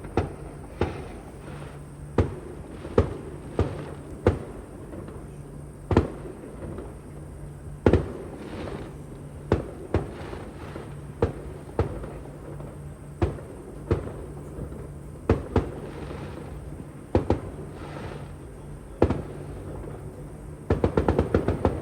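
Fireworks going off: about twenty sharp bangs at irregular intervals, each with a short echoing tail, then a rapid crackling volley near the end.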